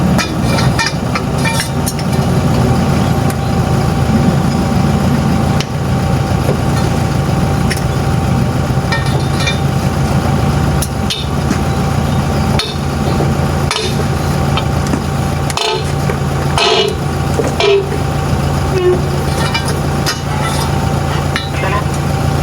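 Heavy truck's diesel engine idling steadily, with scattered short knocks and clicks over it.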